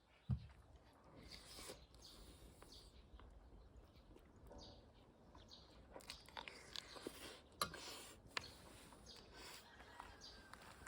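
Near silence: quiet room tone with one sharp knock just after the start and a few faint clicks later on.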